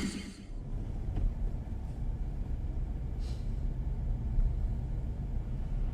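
Steady low rumble of a car driving: road and engine noise, with a brief faint hiss about three seconds in.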